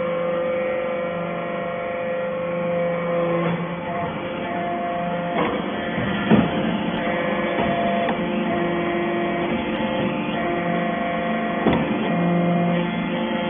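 Hydraulic metal chip baler running: a steady machine hum whose pitch shifts in steps, with a few sharp knocks about halfway through and again near the end.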